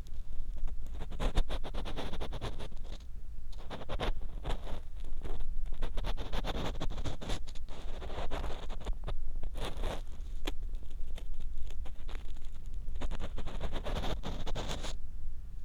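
Ear pick scraping and scratching inside the ear of a 3Dio binaural microphone, a dense run of close, crackly scrapes and clicks with a brief lull near the end.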